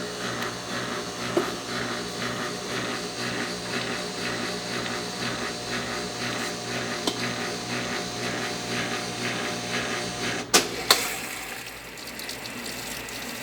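Brastemp 9 kg washing machine running with a steady motor hum and a regular swishing rhythm. Two sharp clicks come about ten and a half seconds in, after which the running sound drops and quietens.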